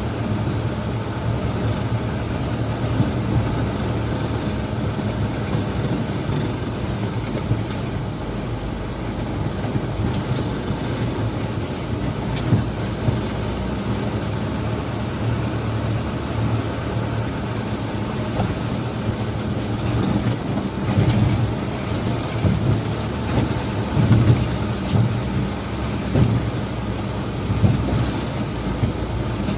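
Dump truck's diesel engine running steadily while the truck is driven, a low hum throughout. From about two-thirds of the way through, irregular louder thumps and rattles join in.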